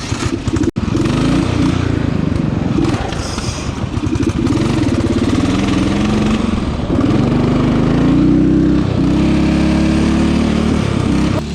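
Riding lawn mower engine running hard, its pitch wavering up and down as the mower drives. The sound breaks off for an instant under a second in.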